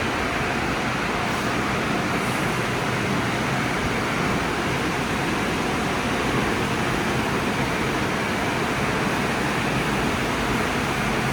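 Tunnel car wash equipment running: a steady, even rushing noise of spraying water and blowing air that does not change.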